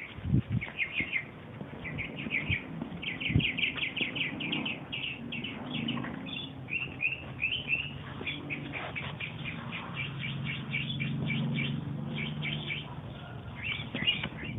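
Birds chirping in quick runs of short, high notes, with a few sharp knocks and a low steady hum in the middle.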